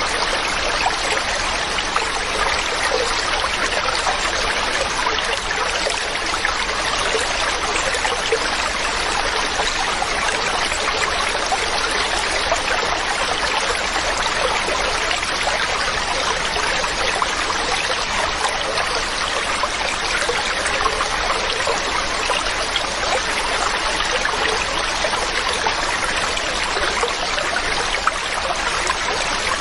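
Mountain stream running over rocks: a steady rush of flowing water with a trickling texture, unchanging throughout.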